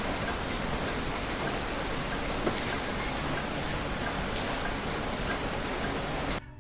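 Heavy rain falling steadily, a dense hiss with scattered drops ticking on a surface. It cuts off suddenly near the end.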